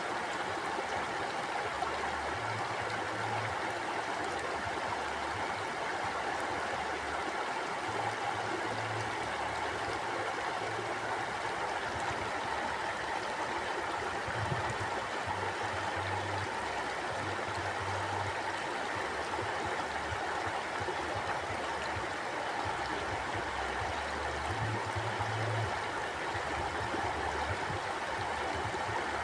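A river flowing, its water rushing and babbling steadily without a break.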